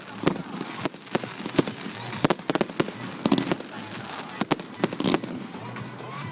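Fireworks display: an irregular string of sharp bangs and cracks, many in quick succession.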